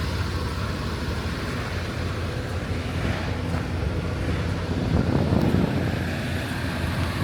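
Semi truck running steadily down the road, heard from the cab: a low, even engine drone with road and wind noise, swelling slightly about five seconds in.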